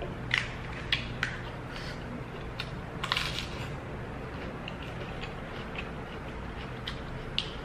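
Close-up eating sounds of a person chewing braised chicken neck bones: scattered wet mouth clicks and smacks, with a denser run of chewing about three seconds in, over a low steady hum.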